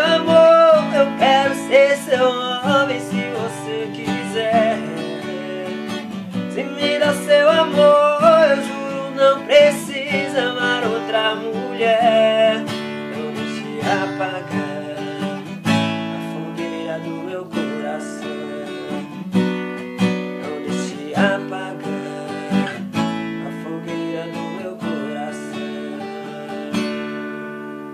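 Instrumental music: acoustic guitar strumming steady chords, with a higher melody line over it for about the first half, then the guitar alone, growing gradually quieter.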